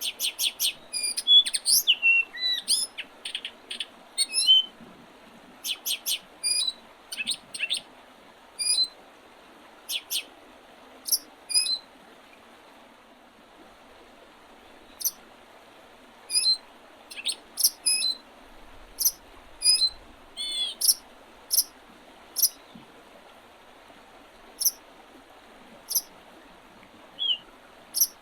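Several small songbirds singing and calling in spring, with quick, sharp chirps that come thick in the first half and more sparsely later, over a faint steady background hiss.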